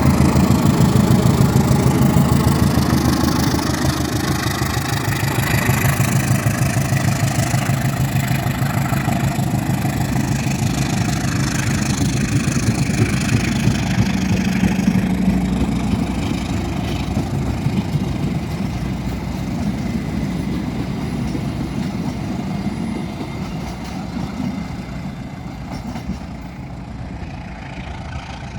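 Diesel locomotive engine running with a steady low rumble, growing gradually fainter as it draws away.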